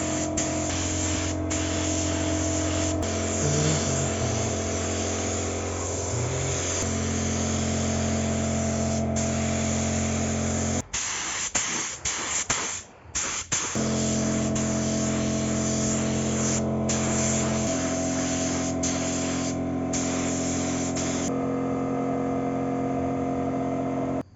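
Paint spray gun running: a steady motor buzz under the hiss of paint spraying. It stops and restarts a few times in quick succession about halfway through, then cuts off at the end.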